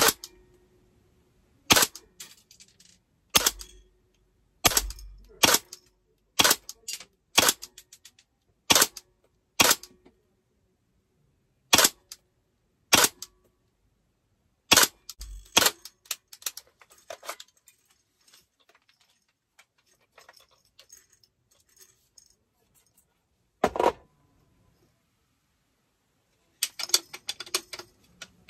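DAS GDR416 airsoft rifle firing single shots, each a sharp crack, roughly one a second, about fourteen in the first half. After a pause there is one more shot, and near the end a quick run of clicks.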